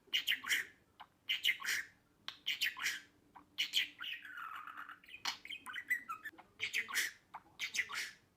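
Budgerigar chattering: clusters of short, sharp chirps and squawks repeating every second or so, with a longer warble about four seconds in.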